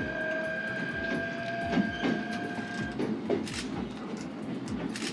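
Shinano Railway SR1 series electric train running, heard from on board: the motor whine, a steady high tone and a slowly rising lower tone, cuts off about three seconds in. The wheels rumble and click over the rails throughout.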